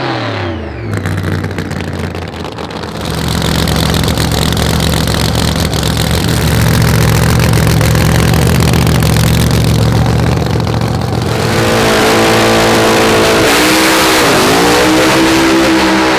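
Drag racing car engines at full throttle. Revs fall away at the start, then a loud engine runs steadily for several seconds. About eleven seconds in, a higher-pitched engine takes over; its pitch dips sharply once and climbs again.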